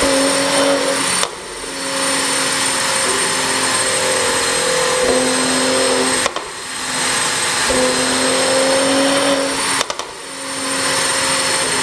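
Mercedes-AMG GLC 43's twin-turbo V6, revved and held high in long pulls. It drops off three times (about a second in, around six seconds, near ten seconds), with short pops at each lift-off from its pop-and-crackle exhaust tune, then climbs back.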